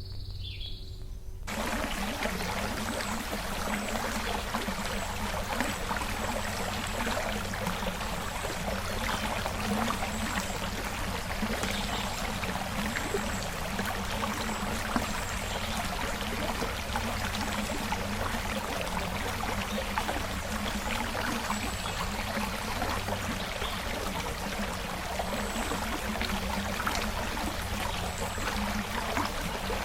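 A brief falling bird whistle at the very start, then a creek's running water, steady and full, from about a second and a half in.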